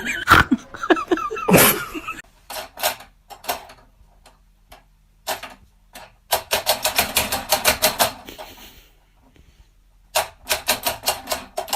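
Runs of rapid sharp clicks or taps, densest a few seconds in and again near the end, after a brief vocal sound at the start.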